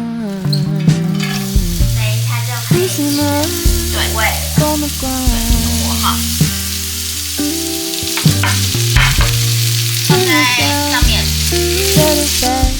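Food sizzling as it fries in a pan, a steady hiss that starts suddenly, with sharp taps now and then. Background music with a melody and bass line plays along.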